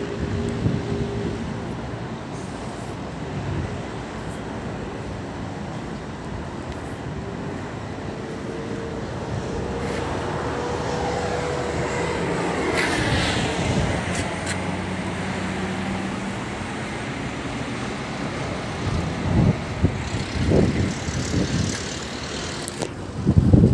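Motor vehicle and road traffic noise: a steady engine and tyre rumble, with one vehicle's pitch rising and falling a little past the middle, and a few short thumps near the end.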